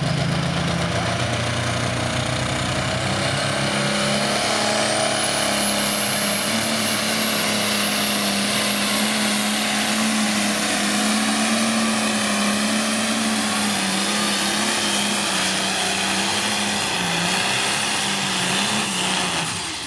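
A competition pulling vehicle's diesel engine running hard at full throttle through a pull. A high whistle rises about four to six seconds in and then holds steady. Near the end the engine lets off.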